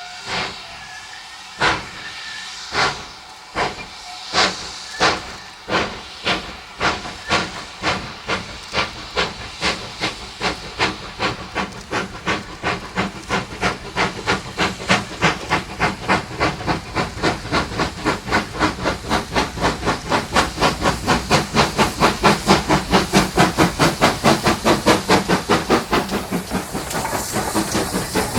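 Double-headed steam locomotives pulling away with a train: sharp exhaust beats, at first about one a second, quicken steadily into a rapid chuffing as the train gathers speed, with steam hissing throughout.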